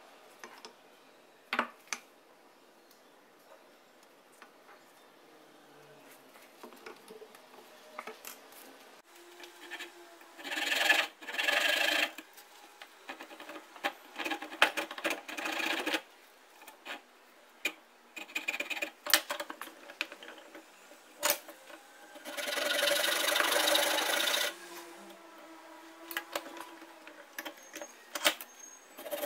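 Hand abrasive work on a workpiece: rubbing, scraping strokes in bursts of one to two seconds, with the longest run about two-thirds of the way in. The bursts are broken by sharp clicks, and the first third is mostly quiet.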